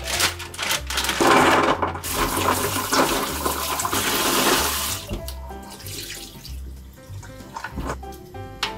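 Tap water running hard into a stainless steel colander in a stainless steel sink while peeled garlic cloves are rubbed and rinsed by hand. The water stops about five seconds in, and background music with a steady bass beat plays throughout.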